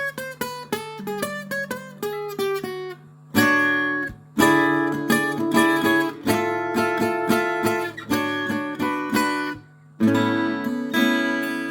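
Acoustic guitar music: quick picked single notes, then strummed chords from about three seconds in, over a steady low hum.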